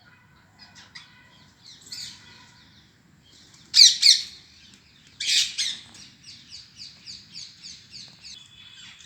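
Parrot squawking: two loud harsh squawks a few seconds in, then a quick run of short repeated chirps, about three a second, near the end.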